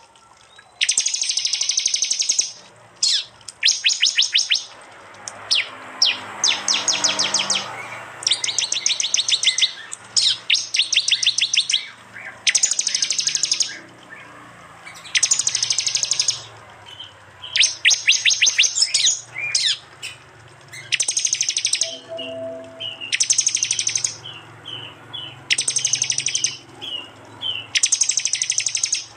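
Prenjak (prinia) song in loud repeated bursts: about a dozen rapid high-pitched rattling phrases, each about a second long and coming every couple of seconds, with a few short single chips between them near the end.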